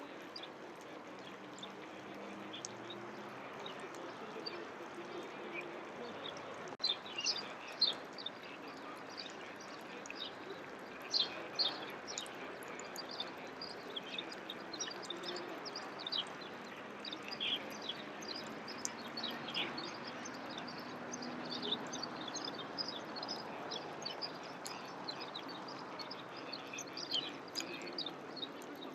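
Several birds chirping and singing, many short calls overlapping throughout, over a steady low background hum of outdoor noise.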